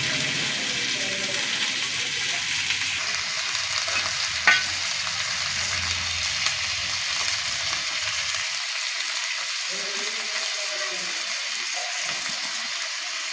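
Cauliflower florets sizzling steadily in hot oil in a black kadai over a wood fire. There is one sharp click about four and a half seconds in.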